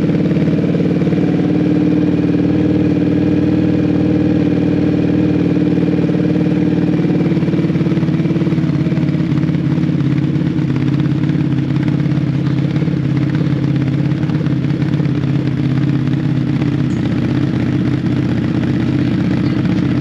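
CFMoto ZForce 800's V-twin engine idling steadily through a freshly fitted RJWC Mud Edition aftermarket exhaust.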